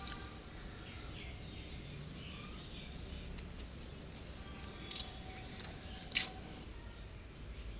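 Outdoor ambience with a steady high insect chirring, broken by a few sharp clicks, the loudest about six seconds in.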